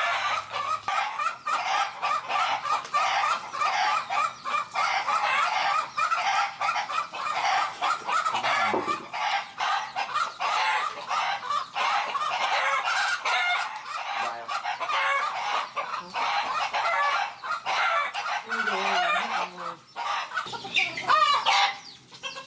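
A flock of farm poultry clucking and calling continuously, many birds' short calls overlapping one another.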